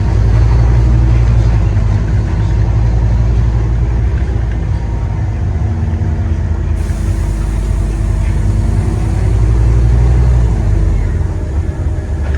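Scania N230UD double-decker bus's five-cylinder diesel engine running under way, heard from onboard with road noise as a steady low rumble that drops back a little about ten seconds in.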